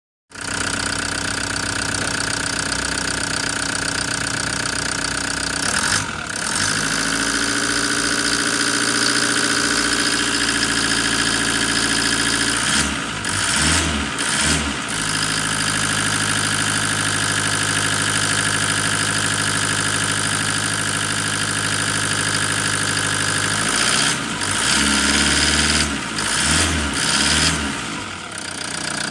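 Toyota Hiace 3.0-litre diesel engine running at a steady idle, with a few brief throttle blips about halfway through and again near the end.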